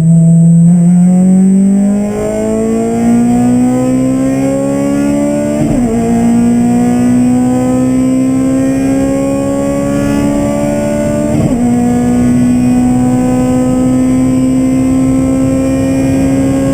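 Honda K20 inline-four engine accelerating hard through the gears, its note climbing steadily and dipping briefly at two quick upshifts, about six and eleven seconds in.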